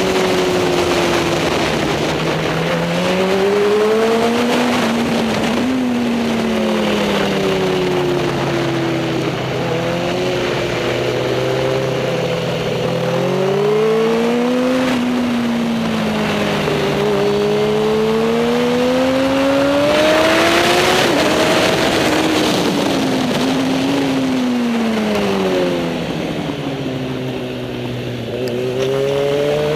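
Superbike motorcycle engine at race speed, its pitch rising and falling again and again as the revs climb and drop.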